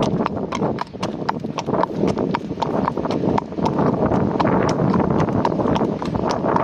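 A horse's hooves clip-clopping at a brisk walk, about four even steps a second, with wind rumbling on the microphone.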